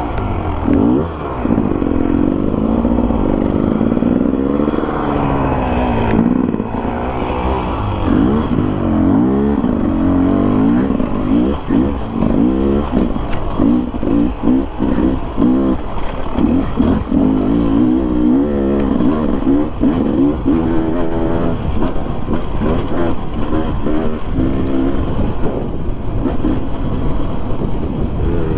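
Enduro dirt bike engine under way on a trail, its revs rising and falling every second or two as the throttle is worked, with quicker on-off blips of throttle in the second half.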